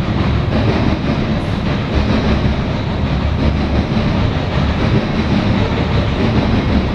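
Freight cars of a CSX coal train rolling past, a steady, loud rumble of steel wheels on the rails.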